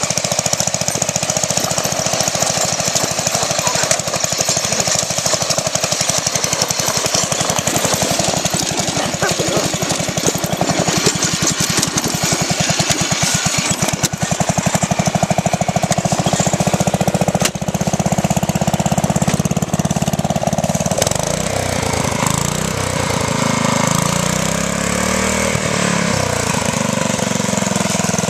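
Modified off-road riding lawn mower's engine running hard with a rapid hammering firing beat. In the last several seconds its pitch wavers up and down as the revs and load change.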